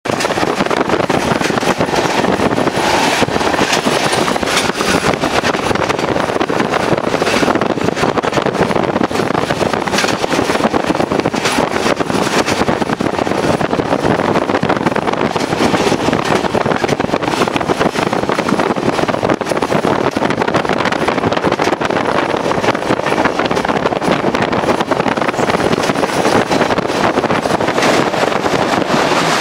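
Konkan Railway passenger train running at speed, heard from on board: a steady, loud rush of wheels on the track with wind on the microphone.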